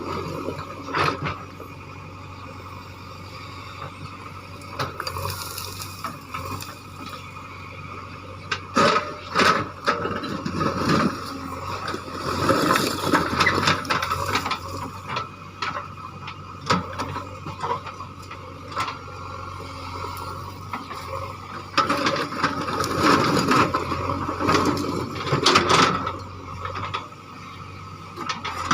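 JCB backhoe loader running steadily while its bucket works through rock, with irregular metallic clanks, knocks and grinding scrapes, heaviest in two spells near the middle and toward the end.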